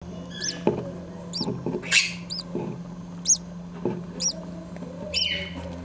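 Green-cheeked conure nestlings peeping: thin, high chirps that rise and fall, about one a second, with a few soft scratchy rustles between them.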